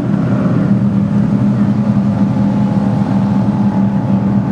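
A Ferrari engine idling steadily, loud and even, with no revs.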